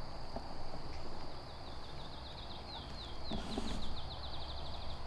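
A small songbird singing a series of high, down-slurred whistles that come faster and faster, over a steady high insect drone.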